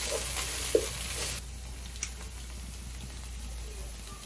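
Lemongrass, garlic, chili and belacan sizzling in hot oil in a non-stick pot, stirred and scraped with a wooden spatula. The sizzle drops off abruptly about a second and a half in, leaving a quieter hiss with occasional faint spatula taps.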